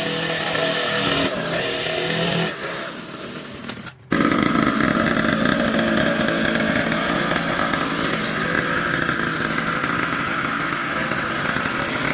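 The restored mini motorcycle's small engine is running. About four seconds in, the sound breaks off abruptly and comes straight back as a steady engine note that holds to the end.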